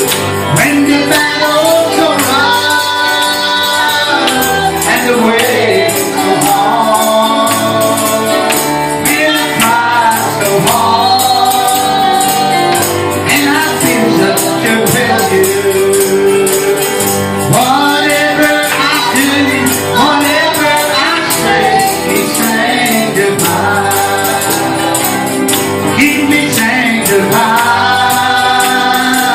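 Live gospel music: a tambourine shaken in a steady rhythm over the accompanying instruments, with voices singing.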